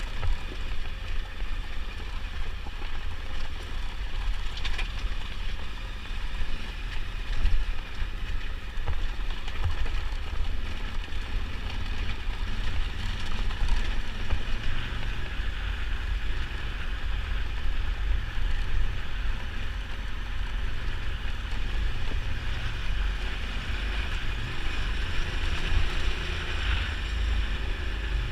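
Steady wind buffeting on a motorcycle-mounted camera, with the KTM 990 Adventure's V-twin engine running underneath as the bike rides along.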